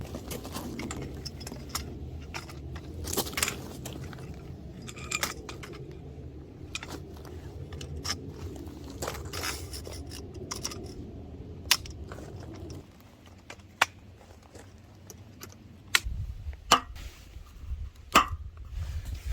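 Scattered clicks, crunches and rattles of things being handled, over a low steady hum that cuts off suddenly about 13 seconds in.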